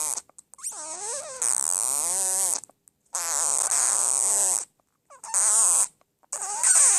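A woman making weird noises with her voice: a string of raspy, buzzy vocal sounds a second or two long, the pitch sliding up and down in some of them.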